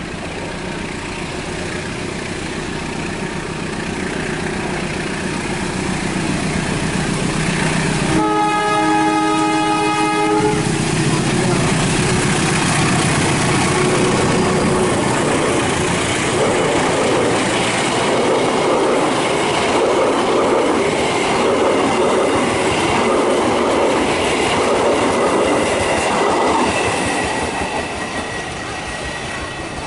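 Train approaching and running past, its horn sounding one blast of about two seconds roughly eight seconds in. The cars then rumble past on the rails, growing louder and easing off near the end.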